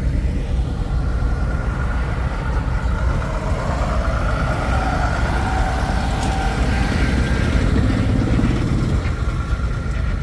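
Car engine running at low speed, its low rumble building from about four seconds in and falling away near nine seconds, over a steady background rumble of engines.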